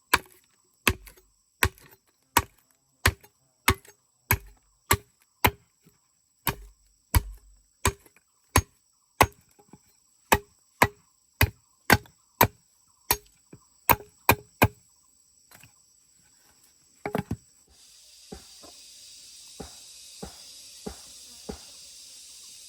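Steady rhythmic chopping blows, sharp strikes at about one and a half a second. They pause briefly around two-thirds of the way in, then resume softer under a steady high-pitched hiss, likely insects.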